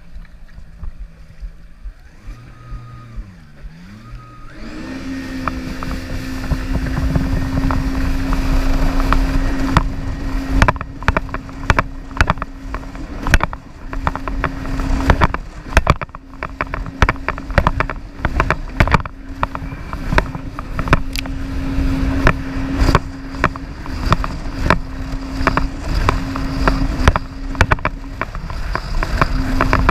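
Jet ski engine picking up speed about four seconds in, then running at a steady high pitch, with heavy rumble and many sharp knocks and thumps.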